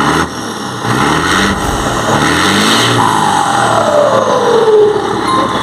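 Scania 113 truck diesel engine revved while parked, its turbocharger fitted with a 'pente' (comb) modification. The engine note rises, then from about halfway the turbo's whistle falls steadily in pitch as it spools down.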